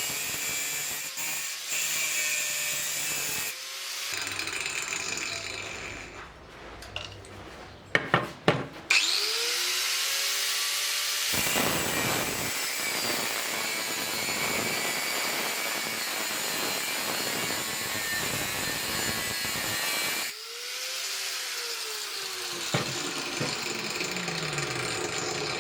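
Power tool working scrap metal, running in long stretches. It stops briefly twice, with the motor's pitch sliding as it slows and speeds up again, and there are a few sharp knocks during the first stop.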